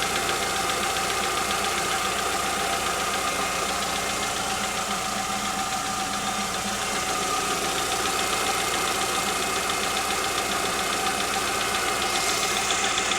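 Skoda Octavia 1.6 engine running steadily with a fast, even ticking from the valvetrain: knock from the hydraulic valve lifters.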